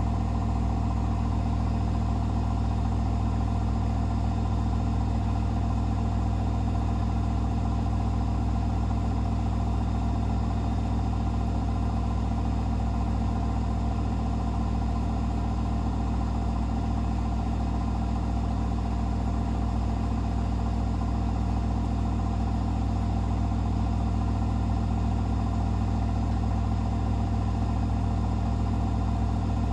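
Hoover H-WASH 500 front-loading washing machine spinning its drum at a steady high speed, a constant deep motor hum with a few fixed tones above it, typical of the final spin near the end of a wash cycle.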